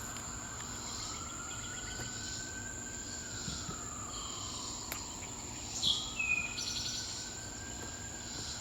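A steady high, unbroken insect drone from summer insects, with a faint slow whine that rises and falls twice. About six seconds in, a short bird song of a few clear notes and a quick trill, which fits an eastern towhee.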